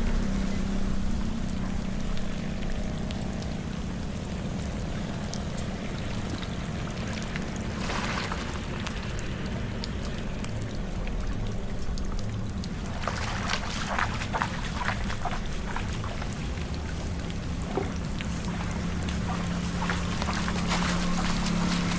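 Floodwater pouring and trickling down into a storm drain, over a steady low hum, with scattered crackling and splashing in the second half.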